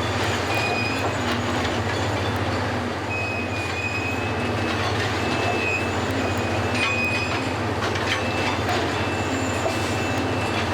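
Track renewal train working at a crawl: a steady low machinery drone, with short high-pitched squeals coming and going several times and scattered sharp metallic knocks.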